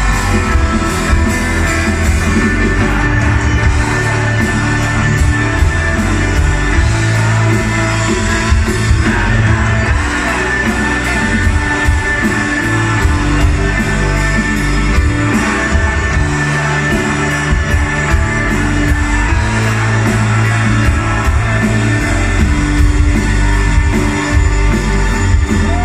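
Live rock band performing on stage, with singing over guitars, bass and drums, as heard from the audience.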